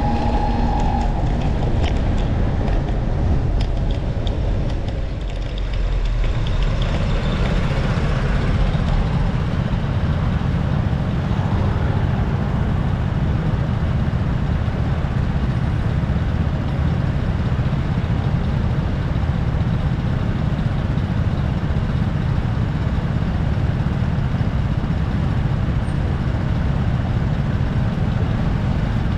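Wind buffeting the microphone during a ride in road traffic: a steady low rumble with passing vehicle noise, dipping briefly about five seconds in.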